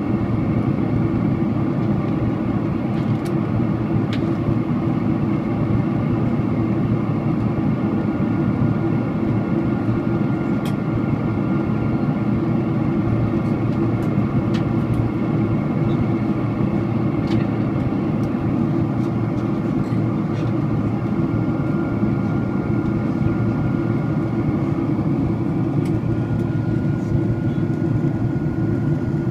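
Steady cabin noise inside a Boeing 767-400ER airliner in flight: a deep, even rush of engine and airflow noise with a faint steady high whine over it.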